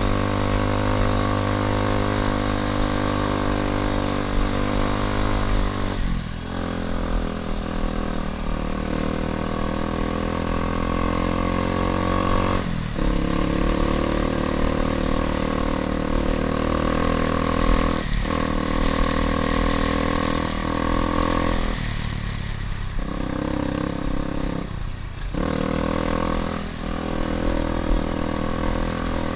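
Dirt bike engine running while riding. The engine note drops off briefly and picks up again several times, about 6, 13, 18, 22 and 25 seconds in.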